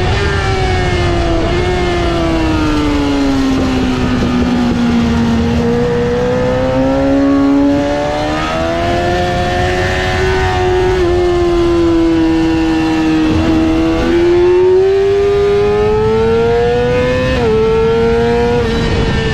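Yamaha R6's inline-four engine running hard at high revs. Its pitch slides down and then climbs back through the corners, with a couple of sudden steps in pitch near the end.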